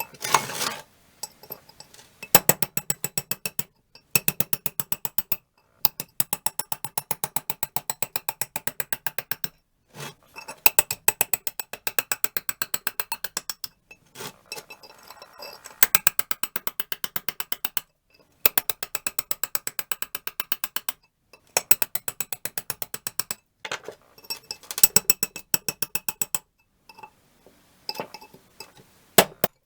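Runs of rapid, evenly spaced mechanical clicking, about eight clicks a second, each run lasting one to three seconds with short pauses between.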